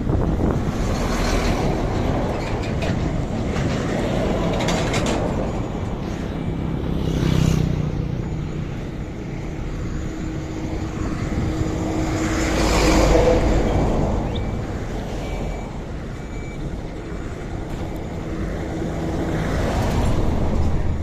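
Road traffic: a steady rumble of vehicles going by, swelling as one passes after another, loudest about halfway through.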